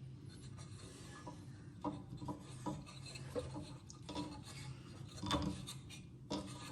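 Small metal parts of a disassembled air-compressor pump being handled: scattered light clinks, knocks and scraping, with a louder knock about five seconds in, over a faint steady hum.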